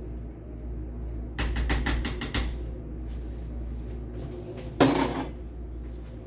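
Kitchen pots and utensils clattering: a quick run of metal clinks about a second and a half in, then one loud clank with a short ring near the end.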